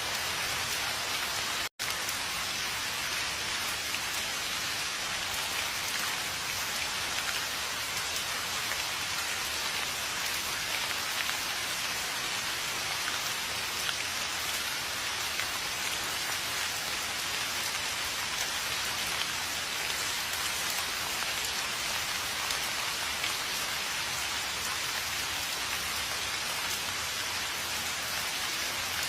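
Steady rain falling, an even hiss with scattered drop ticks, broken by a split-second dropout to silence about two seconds in.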